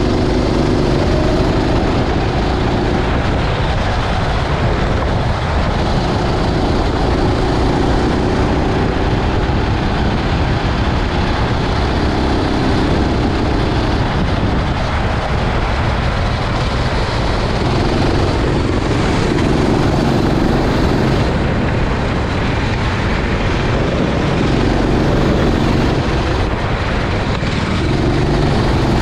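Go-kart engine running at racing pace, its note swelling and falling back again and again as the throttle opens and closes through the laps, over a constant loud rushing noise.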